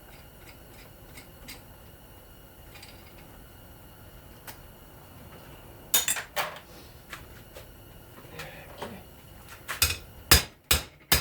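Metal parts of a ceiling fan motor clinking and knocking as a part is worked loose, with faint handling clicks at first, then two sharp clanks about six seconds in and a quick run of about four more near the end.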